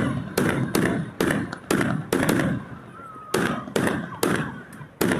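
Fireworks going off in quick succession: a run of sharp bangs, about two a second, with a short lull just before the middle.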